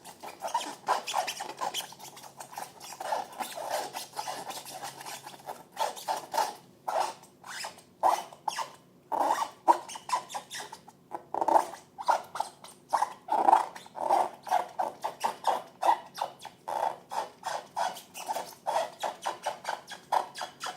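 Sticky slime being squeezed, stretched and mixed by hand: a dense, irregular run of wet squelches, clicks and small pops.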